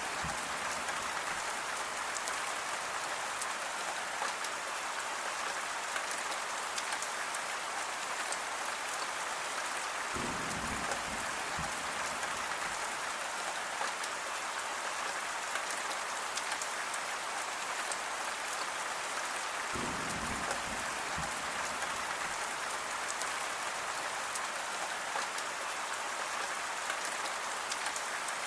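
Steady rain falling on a surface, thick with fine drop ticks. Twice, about a third and two thirds of the way through, a brief low rumble sounds under it.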